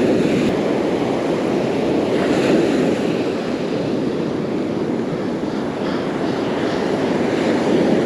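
Gulf surf washing steadily onto the beach, with wind rumbling on the microphone.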